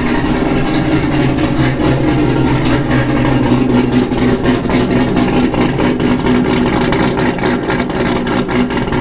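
Cammed C7 Corvette 6.2-litre V8 idling through a homemade 6-inch exhaust stack, running steadily with an uneven, pulsing beat.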